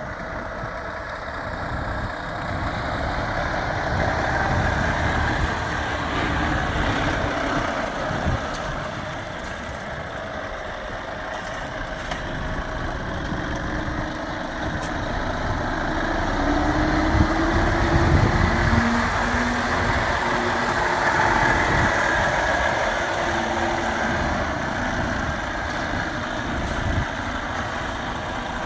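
Volvo FH460 tractor unit's 13-litre six-cylinder diesel idling steadily, its level swelling and easing a little.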